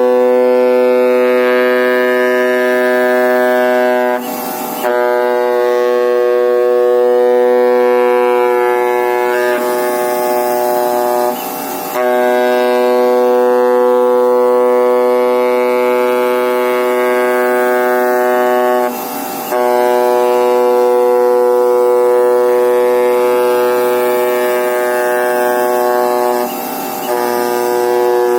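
Oscillating knife of a flatbed cutting plotter buzzing steadily at one pitch as it cuts expanded-graphite gasket sheet. The buzz briefly drops in level four times, about every seven seconds.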